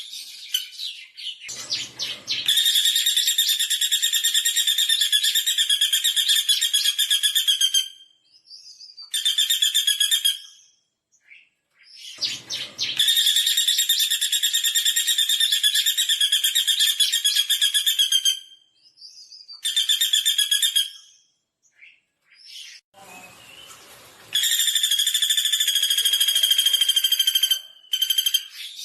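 Pelatuk bawang woodpecker giving long, fast rattling trills, each lasting several seconds, repeated three times with shorter calls in between.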